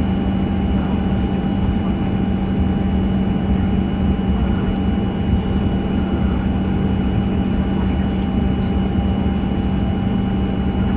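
Cabin noise inside a Boeing 737-900 with its CFM56 turbofan engines running: a steady low rumble and drone with a couple of constant higher tones, unchanging throughout.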